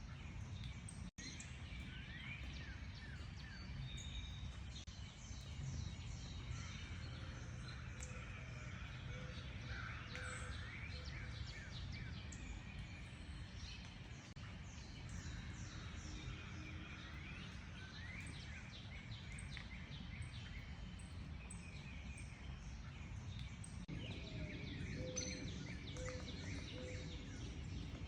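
Many wild birds chirping and calling together: a busy chorus of short chirps and quick rising notes over a steady low background rumble. The sound drops out for a moment about a second in.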